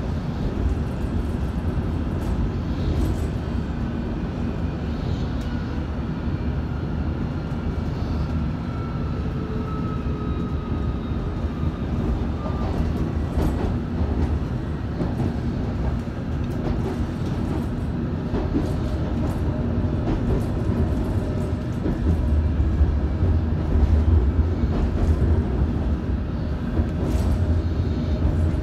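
Interior running noise of a London Underground S8 stock train in motion: a steady low rumble of wheels on rail with scattered light ticks, and a faint falling whine in the first half. The rumble grows louder about two-thirds of the way through.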